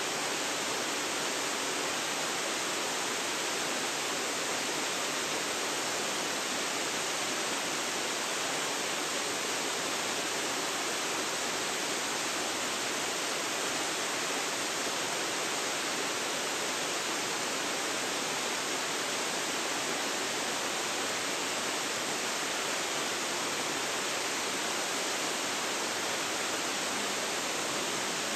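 Waterfall, its falling water making a steady, even rush of noise with no change in level.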